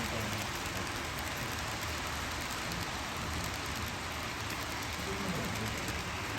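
N gauge model trains running on the layout's track, a steady rolling hiss with no breaks.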